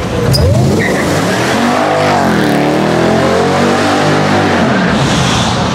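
Mercedes-Benz W211 E-Class AMG V8 in a tunnel, held at high revs while it spins its rear tyres in a burnout. The revs climb about a second and a half in, hold, and fall away near the end, with a hiss of tyre noise.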